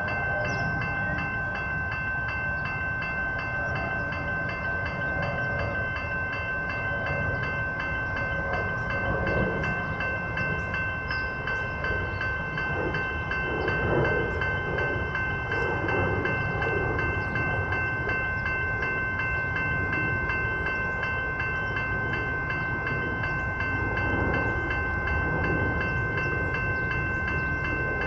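Train running through a level crossing with a steady rumble that swells twice, while the crossing's electronic bells ring without pause.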